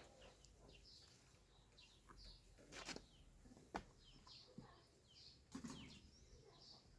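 Faint chirping of small birds, short high chirps repeating about twice a second, with a few sharp knocks in between.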